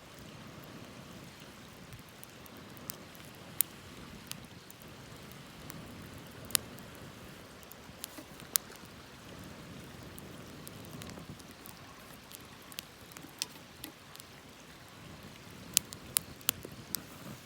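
Wood campfire burning, with irregular sharp crackles and pops over a steady low hiss; a quick run of loud pops comes near the end.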